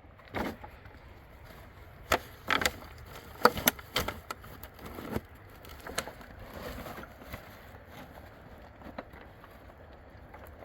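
Irregular sharp knocks and clatters of hard objects, several in quick succession in the first half, then fewer and fainter.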